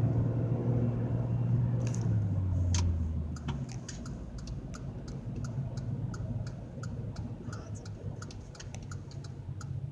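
Car engine and road hum heard from inside the cabin, fading about three and a half seconds in as the car slows, then a steady ticking of about three clicks a second, typical of a turn-signal relay.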